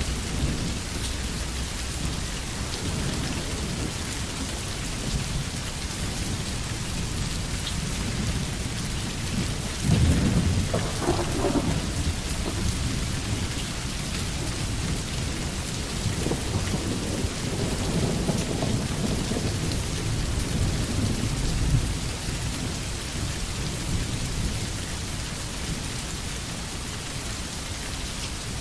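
Steady heavy rain with rolling thunder: a louder crack of thunder about ten seconds in that rumbles on for a couple of seconds, and more rumbles over the following ten seconds.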